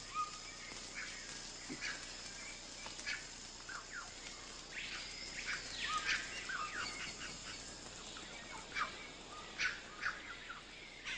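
Forest birds calling: scattered short chirps and whistles, with one longer rising-then-falling call about five seconds in, over a faint steady background hiss of rainforest ambience.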